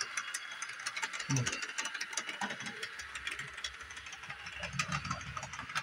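Bachmann Doodlebug model railcar running along the track, its motor and gears making a steady fine clicking with some clunking. The clicking is so much that the owner suspects the tight 18-inch radius curve.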